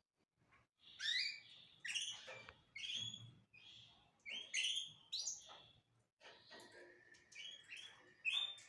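Small cage birds chirping in quick, repeated calls with sliding notes, and a held whistled note joining in over the last couple of seconds.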